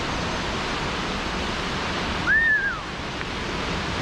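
Steady rushing of a high waterfall close by. About two seconds in, one short whistled note rises and then falls, briefly louder than the water.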